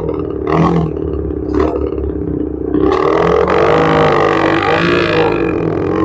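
Yamaha R25's parallel-twin engine running on the move, with short throttle blips in the first two seconds. From about three seconds in it runs louder, its pitch wavering up and down, with wind rushing over it.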